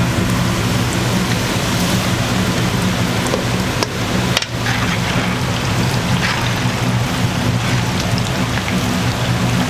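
Chicken deep-frying in hot oil: a dense, steady sizzle like heavy rain, over a steady low hum. The sound drops out briefly twice near the middle.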